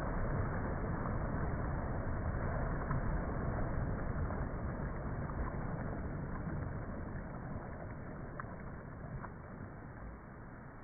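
Sea waves washing in a steady rush that gradually fades over the second half.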